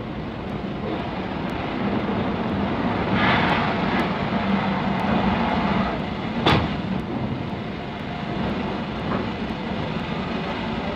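Steam locomotive sounds: a steady rumble, a short loud hiss about three seconds in, and a single sharp clank about six and a half seconds in.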